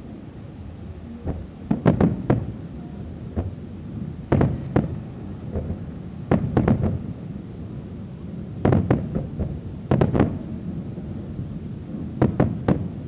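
Aerial fireworks shells bursting: a string of loud bangs at irregular intervals, often two or three in quick succession, each trailed by a low rumble.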